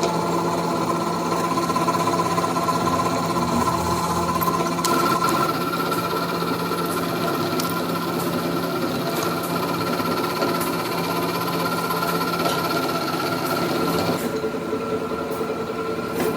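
Metalworking machinery running in a factory: a steady mechanical hum with several held tones and scattered sharp metallic clicks and taps. The sound changes a little past three-quarters of the way through, turning duller as the high end drops away.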